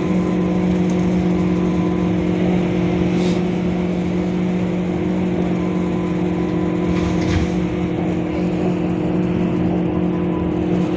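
Scania K230UB bus's five-cylinder diesel engine running at steady revs, a constant drone with no rise or fall. A brief hiss or click comes about three seconds in and another about seven seconds in.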